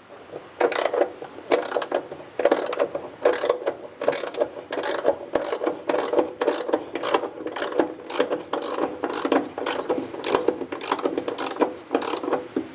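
Hand ratchet wrench clicking in steady back-and-forth strokes, about one a second, each stroke a quick run of pawl clicks, as a bolt is loosened on the car's front mount.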